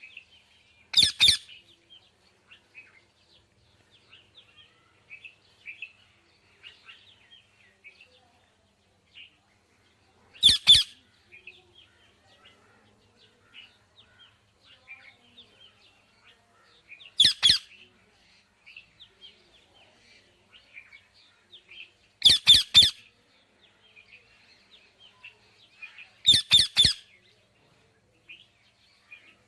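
Indian ringneck parakeet calling: five loud bursts of rapid, harsh screeching notes, each under a second and several seconds apart, about a second in, near 10 s, 17 s, 22 s and 26 s. Soft chirps and chatter fill the gaps between them.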